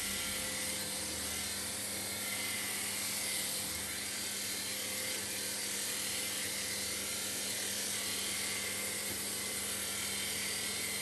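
Helicopter running steadily: an even whirring noise with a constant whine under it, unchanging in level throughout.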